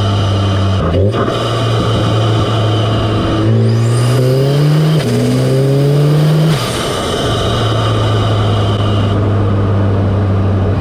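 Audi S3's 2.0-litre turbocharged four-cylinder heard through an APR carbon fiber open intake filter: it idles, then is revved about a third of the way in, climbing in two steps with a rising whistle over the induction noise. It drops back to a steady idle about two-thirds of the way in.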